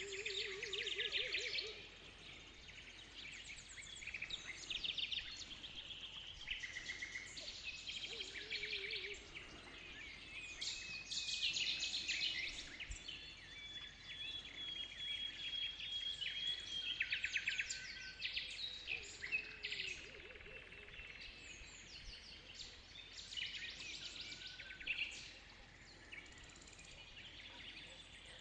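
Dawn chorus of several birds singing and calling over one another, full of rapid trills and repeated chirps, with a lower warbling call coming in now and then.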